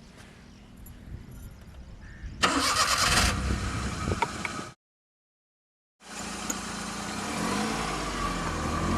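Car engine cranking and starting about two and a half seconds in, then cut off abruptly. After a second of dead silence, the engine is heard running steadily with slight changes in pitch.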